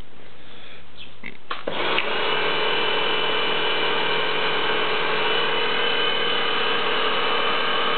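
Kärcher pressure washer starting up about two seconds in, its motor and pump then running at a steady pitch with a constant whine.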